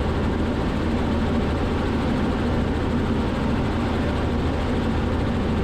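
Robinson R44 helicopter's engine and rotor noise, steady in cruise, heard through the cockpit intercom.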